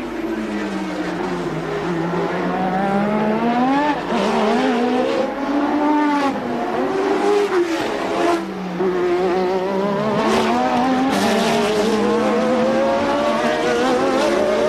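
Late-1980s Formula One car engines at racing speed, their pitch climbing and dropping sharply with the revs and gear changes, more than one engine heard at once.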